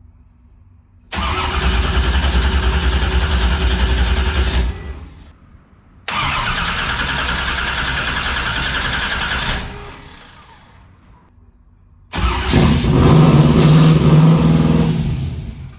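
Twin-turbo LS V8 engine firing up and running fast three times, each run dying off after three or four seconds. It is taking off on its own from a vacuum leak: an unplugged port on the Holley intake manifold.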